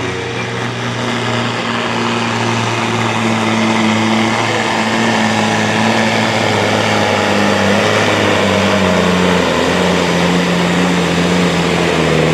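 Sport-class pulling truck's engine running hard at high revs under the load of the sled, its note dropping somewhat about nine seconds in.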